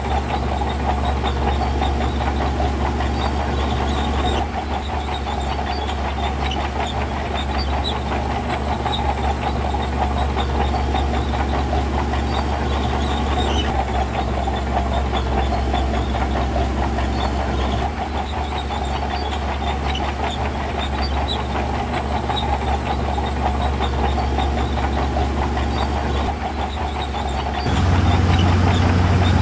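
Diesel engine of heavy earthmoving equipment running steadily under load with a low drone. The sound changes abruptly a few times and gets louder and lower near the end.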